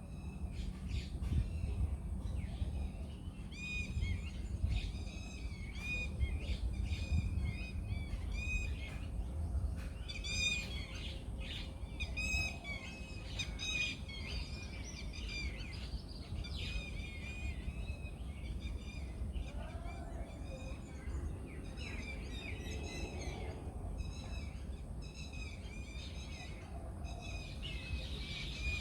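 Countryside birdsong: several small birds chirping in quick runs of short repeated notes, over a steady low rumble.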